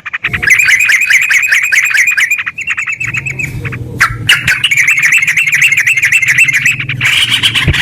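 Yellow-vented bulbul (terucuk) calling in long runs of rapid chattering chirps, the fast rolling 'ngeropel' song, broken by a short pause a little before halfway. A low steady hum sits under the second half.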